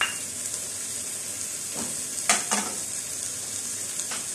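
Chicken frying in its own fat in a pot over a low gas flame, the cooking liquid boiled away, with a steady high sizzle. Two or three sharp knocks come about two and a half seconds in.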